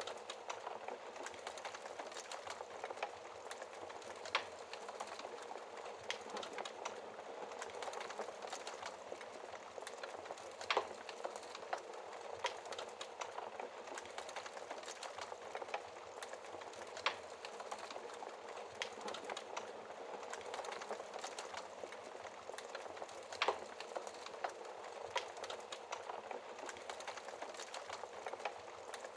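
Wood fire burning with a steady crackle, and a sharper pop every few seconds.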